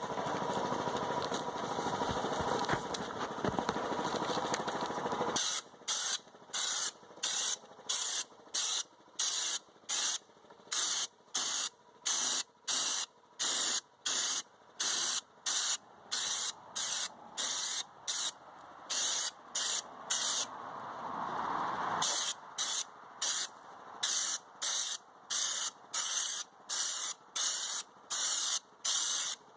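Compressed-air spray gun at 60 psi hissing as it sprays U-POL Raptor bed liner. Steady for about the first five seconds, then in short, evenly spaced bursts about one and a half a second, with a longer steady spray for a couple of seconds near the middle.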